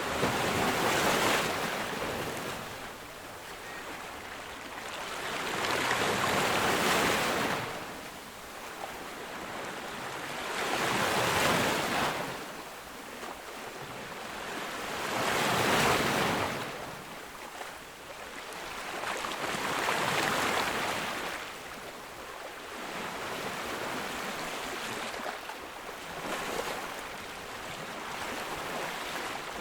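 Ocean waves breaking on a beach, each one swelling into a hiss of surf and fading, about one every four to five seconds.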